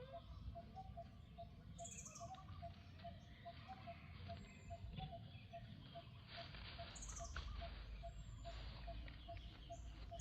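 Faint outdoor ambience with birds calling: scattered chirps and a few high, falling calls over a steady short note that repeats about two or three times a second.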